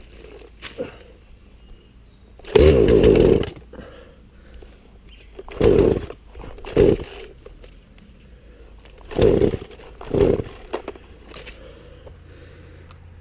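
Poulan Pro two-stroke chainsaw being pull-started: five short bursts of cranking, the first and longest about two and a half seconds in. The engine does not keep running, a sign that the saw still needs priming.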